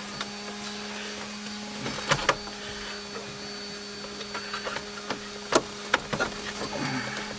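Scattered clicks and knocks of plastic dash trim and a car radio being handled and pushed into place, over a steady low hum.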